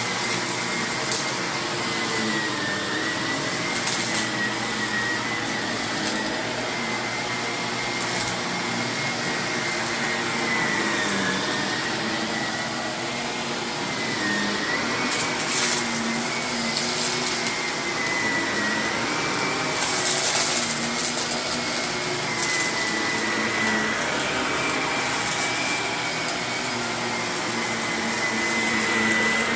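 Vacuum cleaner running over carpet with a steady motor whine whose pitch dips briefly now and then. Scattered crackles of grit hidden in the carpet being sucked up come through, thickest about halfway through and again about two-thirds of the way in.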